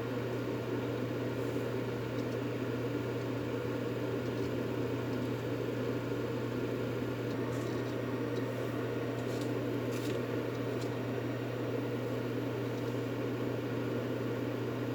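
Steady white noise played as a sleep aid for babies: a constant, unchanging hiss with a low hum underneath. A few faint clicks come about halfway through.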